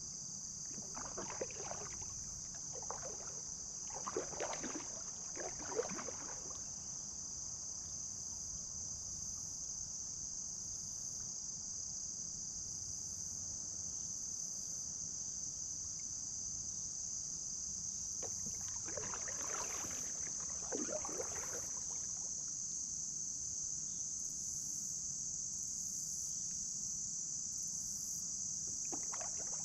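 Steady high-pitched insect chorus, with kayak paddle strokes splashing in the water in a few short bunches: several strokes near the start, a couple about two-thirds of the way in, and more at the very end.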